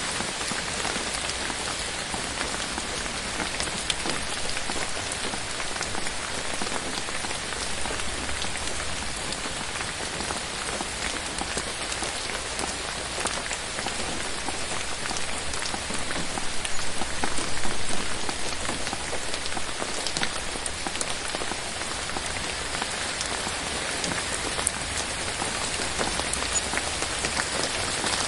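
Steady rain falling on forest foliage, many separate drops heard as sharp taps over an even hiss. It grows heavier for a couple of seconds a little past the middle.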